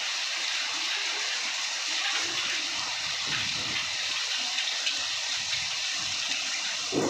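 Floodwater from heavy rain rushing and gushing past like a small river, mixed with rain, a steady, even hiss of water.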